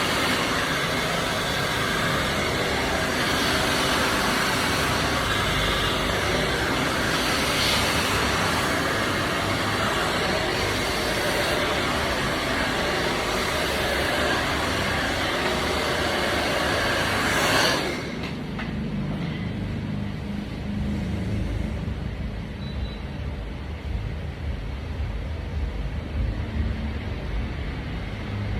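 Hand-held hair dryer blowing steadily, switched off about two-thirds of the way through, leaving a quieter low rumble.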